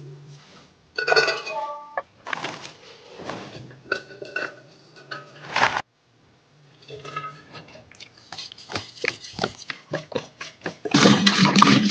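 Dishes and kitchen utensils clinking and knocking, with a short ringing clink about a second in and a quick run of light taps later. A louder rush of running water starts near the end.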